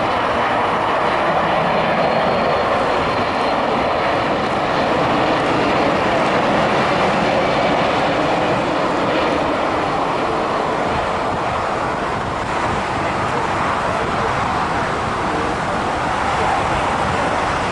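Airbus A330-200 jet engines heard while the airliner lands: a loud, steady rushing noise with no clear pitch and no distinct events.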